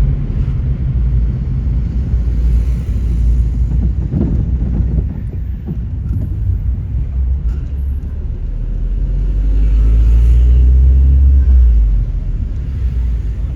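Car driving on a road: a low, steady rumble of engine and tyres that swells louder about eight seconds in and eases off again near the end.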